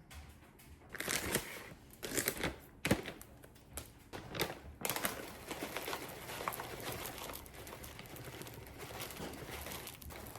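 Crinkling and rustling handling noises in a string of short bursts over the first five seconds, followed by a steady soft hiss.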